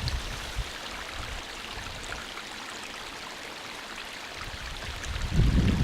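Steady rush of water in a small stream. Near the end, wind buffets the microphone with a low rumble.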